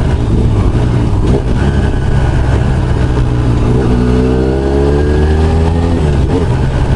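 CFMoto 450SR sportbike's parallel-twin engine running on the move, heard from the rider's seat; from about four seconds in its pitch rises as the bike accelerates, then drops back about two seconds later.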